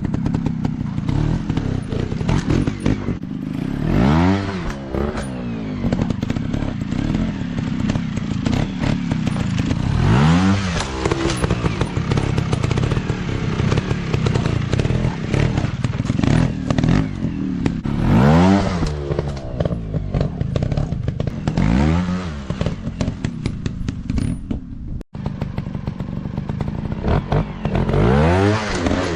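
150 cc dirt bike engines revving hard, over and over, as the bikes are ridden: the pitch climbs and falls back every few seconds, with clattering and thumps from the bikes working over rough ground.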